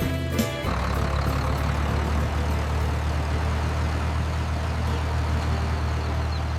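A heavy engine running steadily at idle, a low even rumble that comes in about half a second in as the music stops.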